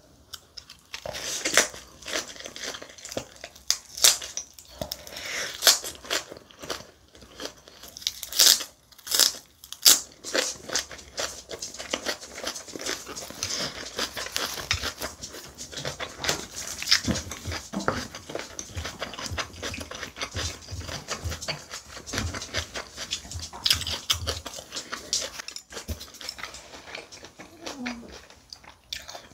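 Close-miked eating: crunching and chewing a napa cabbage leaf wrap of boiled pork and spicy rice, with wet mouth clicks. The crunches are loudest in the first ten seconds, then settle into steadier chewing.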